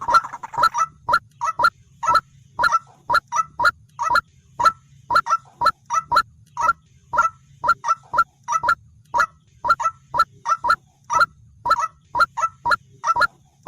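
White-breasted waterhen calling: a long run of short, loud notes, about two to three a second and often in pairs, over a low steady hum. The calling cuts off suddenly at the end.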